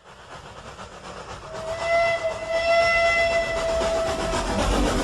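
Steam train running, its rumble swelling, with the locomotive's whistle blowing one long steady note for about three seconds midway.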